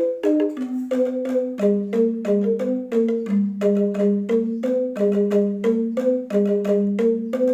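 Balinese rindik, a bamboo xylophone, played with mallets: a quick, steady run of struck notes, a higher melody over a lower line of notes.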